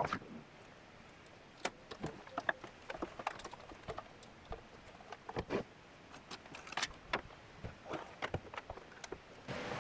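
Light, irregular clicks, knocks and rattles of small hard gear being handled, typical of battery-charger clamps and cords being unhooked and gathered up. A steady hiss comes up near the end.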